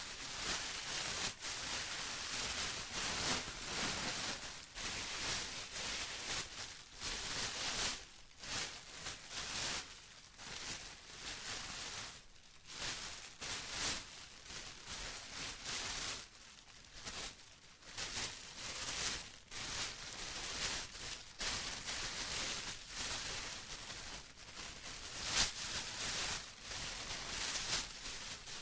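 Plastic being crinkled and rustled by hand: an irregular, crackly rustle that swells and eases in uneven surges, with brief pauses.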